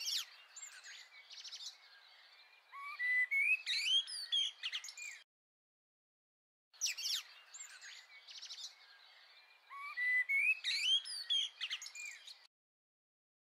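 Birdsong from several birds, a mix of short chirps and whistled glides. The same clip of about five seconds plays twice, cutting off suddenly each time, with a dead-silent gap of about a second and a half between.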